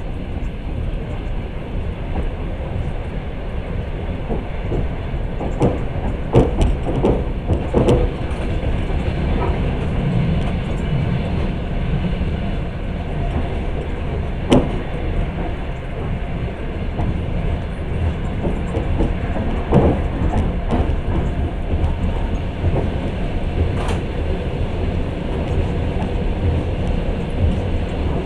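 Long-distance passenger train running, heard from inside the carriage: a steady low rumble of wheels on rail, with scattered sharp clicks and knocks, several close together about six to eight seconds in and single ones later.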